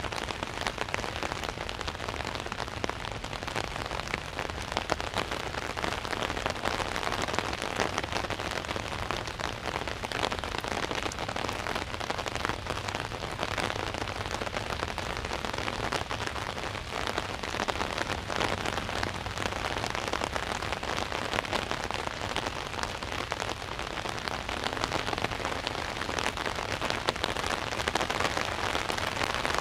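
Steady rain falling on an umbrella overhead: a dense, even hiss made of many small drop impacts.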